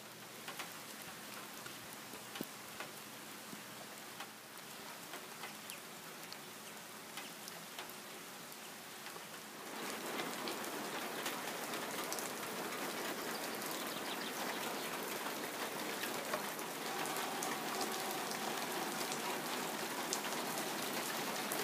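Rain falling steadily, with a dense patter of individual drops hitting surfaces; the rain grows noticeably heavier about ten seconds in.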